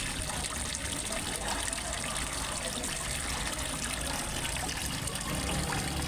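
Water trickling and splashing steadily into a fish pond from a small waterfall, with a low rumble underneath.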